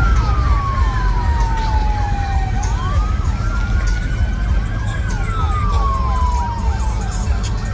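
Emergency vehicle siren wailing: one slow tone falls for about two and a half seconds, rises again and falls once more, overlapped by a second, faster yelping siren. Beneath it is a steady heavy low rumble of traffic.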